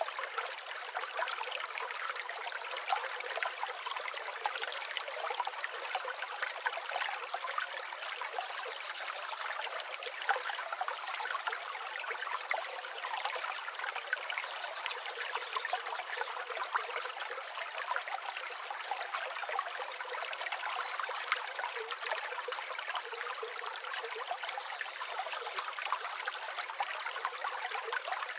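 River water flowing in a steady babble and trickle, without any low rumble.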